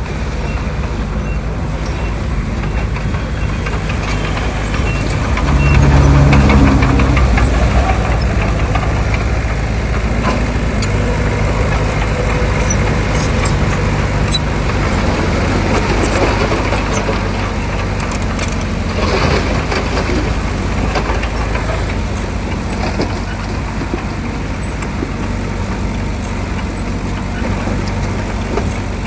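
Diesel engine of heavy earthmoving machinery running steadily, rising louder for about two seconds some six seconds in, with scattered clanks and rattles.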